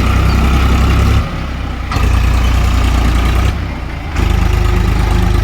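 Eicher 5660 tractor's diesel engine running with a deep, steady throb. Its loudness and tone shift abruptly several times.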